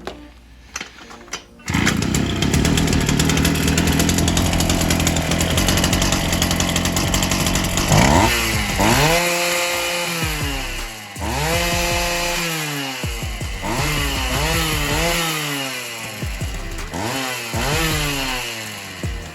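Oleo-Mac Sparta 37 brushcutter's two-stroke engine starting about two seconds in after a few clicks and running at a steady speed. From about the middle on it is revved up and down with the throttle several times.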